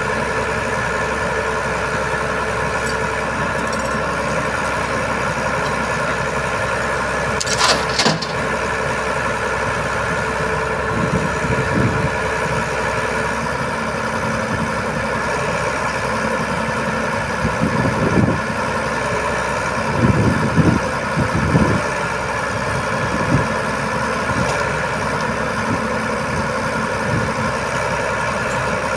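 Heavy truck diesel engine running steadily at idle, with one brief sharp noise about eight seconds in and a few short heavier surges in the engine sound later on.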